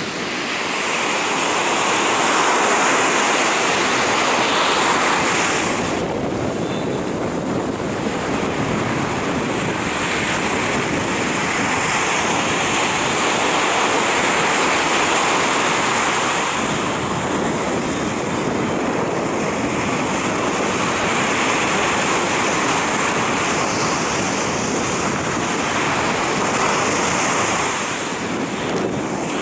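Sea surf washing onto a beach: a continuous rush of breaking waves that swells and eases every few seconds.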